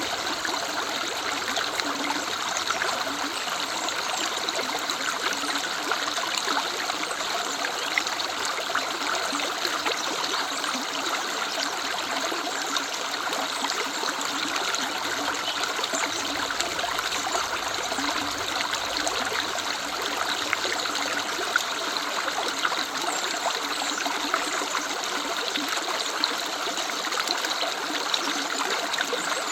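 River water running, a steady rush with small splashes scattered through it.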